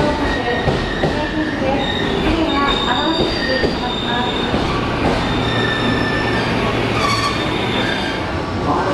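JR West electric commuter train pulling out of the platform, its wheels squealing on the rails with a shifting set of high ringing tones over a steady rumble of running noise.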